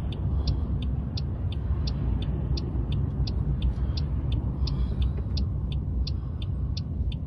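Steady low engine and road rumble heard from inside a car, with the turn-signal indicator ticking evenly about three times a second.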